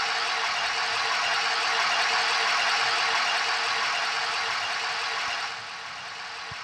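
Car engine running at a raised, uneven idle with its coolant temperature sensor unplugged: the engine computer reads the engine as cold and enriches the fuel mixture, holding the RPM high. A steady hiss lies over the engine and drops away about five and a half seconds in.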